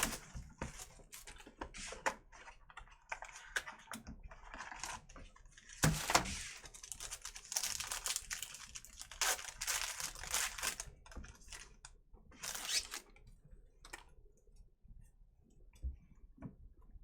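Trading-card packs being opened and handled: wrappers tearing and crinkling, with a run of small clicks and rustles as the cards are slid and sorted. The sounds come in short irregular bursts, busiest in the middle and thinning out near the end.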